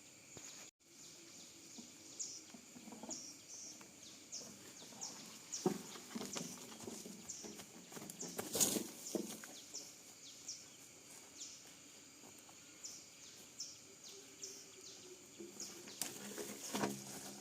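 Outdoor rural ambience: a small creature gives a short, high chirp over and over, about one every half second, while scattered knocks and rustles come and go, a little louder near the middle and the end.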